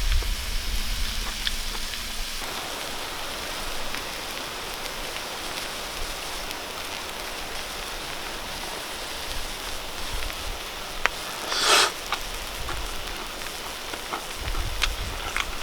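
Beef intestines sizzling steadily on a hot camping griddle, a dense hiss with scattered small pops and one brief louder spit of fat near the end.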